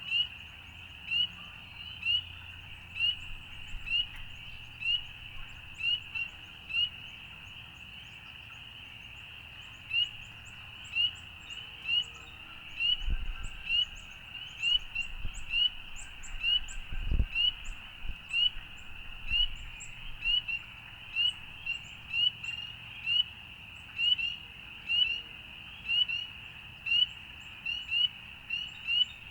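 A chorus of short, high peeping calls repeating about once or twice a second from several overlapping callers, with a lull about a quarter of the way in. A low rumble rises in the middle and ends in a brief thump.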